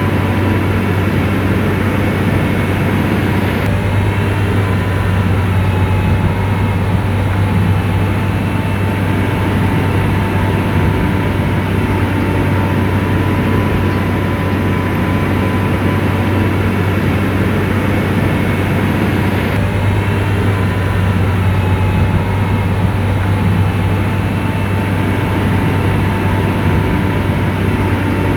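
Komatsu bulldozer's diesel engine running steadily at work, a constant low drone with a faint whine above it.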